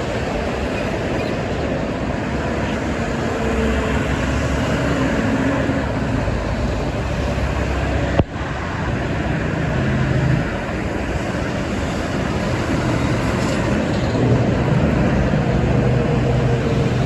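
Steady highway traffic: trucks and cars passing at speed, with continuous tyre noise and engine drone that swells and fades as vehicles go by. A sharp click with a brief dip about eight seconds in.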